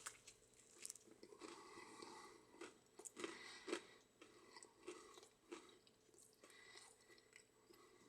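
Faint chewing of a mouthful of crispy breaded fried chicken sandwich, with irregular small crunches.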